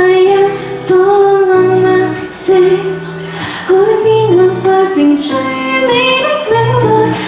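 A woman singing a slow ballad live, holding long drawn-out notes over instrumental accompaniment.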